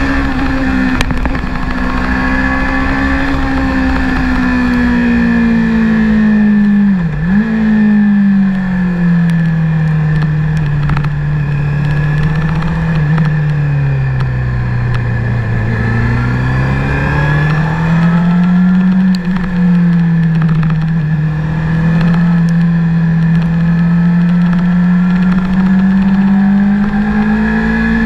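Honda CBR600RR's inline-four engine under way, its note rising and falling with the throttle. There is a quick dip about seven seconds in, a slow fall to a low note around the middle as the bike slows for a bend, then it pulls back up. Wind rush runs underneath.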